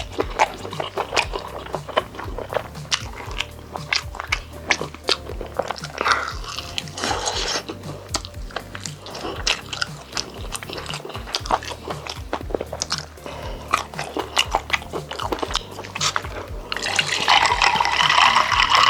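Close-miked chewing and biting of chicken, with a dense run of wet mouth clicks and crunches. Near the end, a drink starts being poured with a steady rushing splash.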